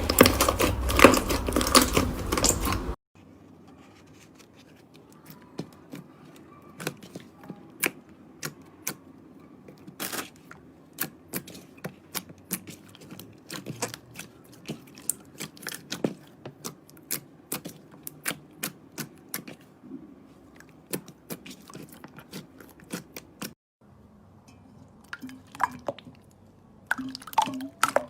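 Slime being squished and poked. For about three seconds there is dense, loud crackling; it then cuts off suddenly to sparse sticky clicks and pops, one or two a second.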